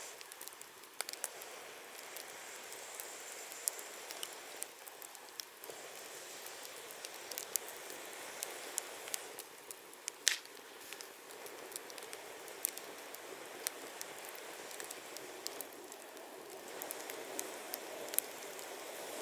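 Wood campfire burning: a steady hiss with irregular sharp crackles and pops, the loudest pop about ten seconds in.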